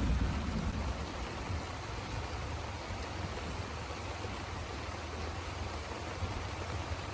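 Steady heavy rain, an even hiss of falling water, with a low rumble dying away in the first second.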